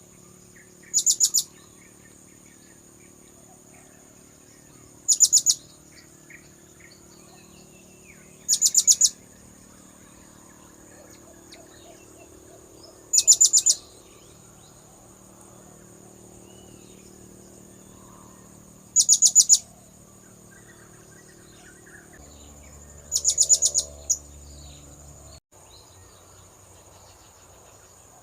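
Blue-crowned hanging parrot (serindit) lure call: six short bursts of rapid, high-pitched chirps, each under half a second, repeating every four to six seconds.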